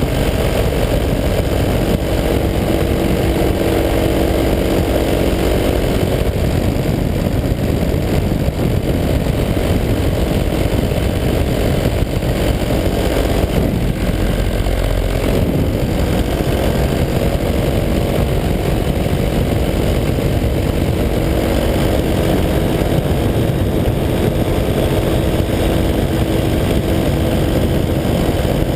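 185 cc EcXtreme two-stroke paramotor engine running steadily at cruise power, with the propeller turning, holding an even pitch.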